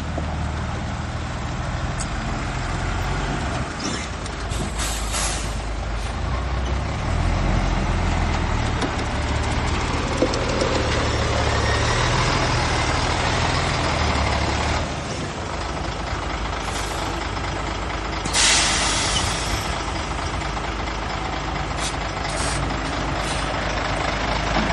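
Heavy diesel engines of a 25-ton dump truck and bulldozer running steadily, with two sharp air-brake hisses from the truck, about five seconds in and again about eighteen seconds in.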